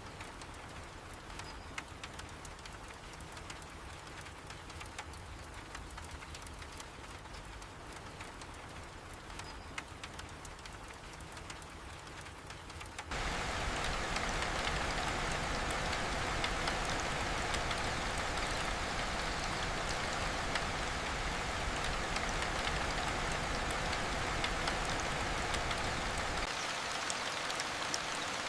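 Steady rain with the patter of individual drops. About thirteen seconds in it turns suddenly louder and denser.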